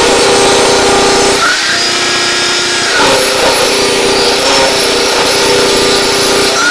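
Electric power saw running and cutting wood. Its motor whine changes pitch about a second and a half in, as the blade takes the load, and settles back about three seconds in.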